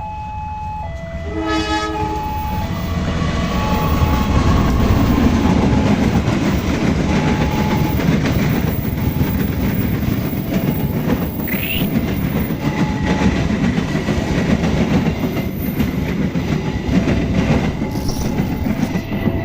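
A passenger train passing at speed, preceded by a short horn blast from the locomotive about a second and a half in. Its heavy rumble and wheel clatter build over the next few seconds and stay loud. Under it a level-crossing alarm keeps beeping in two alternating tones.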